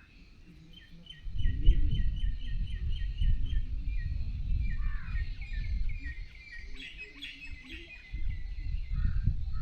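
Small birds chirping, a quick run of short repeated chirps at about four to five a second, then more mixed chirping. A loud low rumbling noise starts about a second in, eases in the middle and returns near the end.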